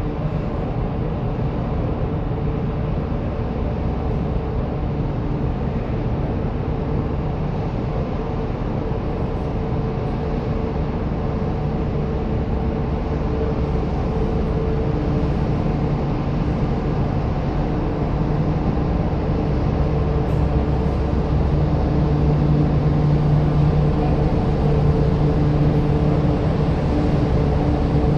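Steady low drone of a ship's engines and machinery, with a constant hum that grows stronger over the last several seconds.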